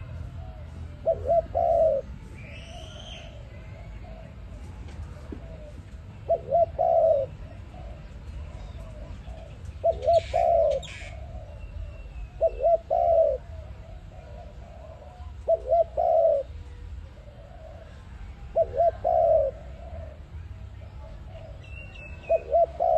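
A dove cooing, repeating the same short phrase about every three seconds: two quick notes and then a longer coo, seven times in all. A faint higher chirp from another bird comes about three seconds in, over a steady low background hum.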